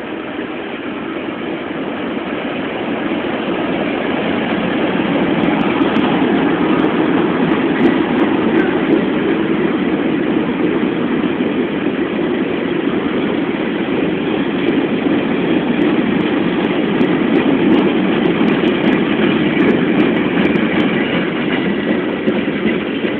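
Steady rumbling noise of a moving vehicle, building up over the first few seconds and then holding, with faint sharp ticks now and then.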